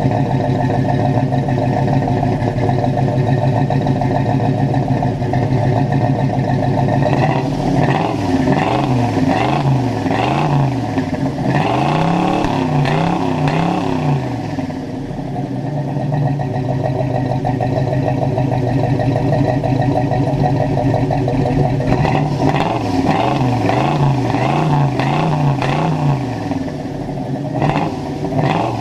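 Freshly rebuilt Pontiac 400 V8 with a Lunati 262/268 camshaft running through its new exhaust: idling steadily, then revved in a run of quick blips about seven seconds in, settling back to idle, and blipped again in another run later on, with one more short rev near the end.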